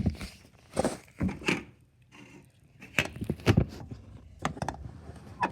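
Irregular knocks and taps on a hard wooden surface, about eight in all, some in quick pairs.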